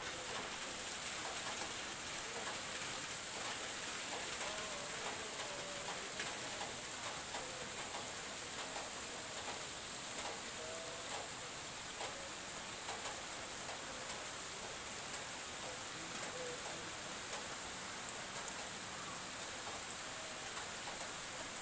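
Light rain falling steadily on wet grass and puddles: an even hiss with a steady high edge and scattered ticks of drops. Short chirping calls from small animals come through now and then.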